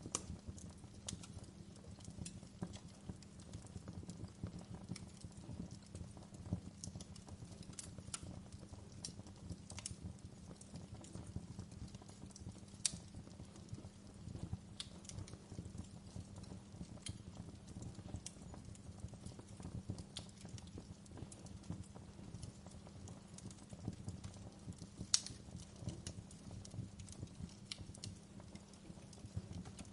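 Wood fire in a fireplace crackling, with sharp irregular pops and snaps over a steady low rumble; a couple of the pops stand out louder.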